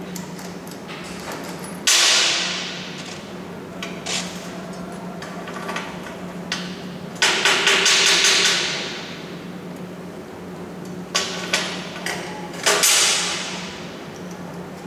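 Hammer blows on metal, each ringing briefly: one about two seconds in, a quick run of strikes around seven to eight seconds, then three more near the end. A steady low hum runs underneath.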